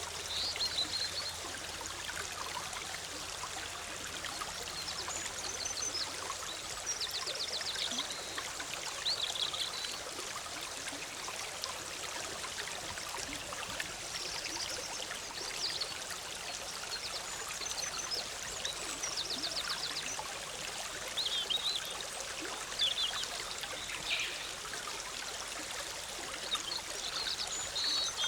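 Forest stream bubbling and trickling steadily, with songbirds calling over it every few seconds: short high chirps and quick trills.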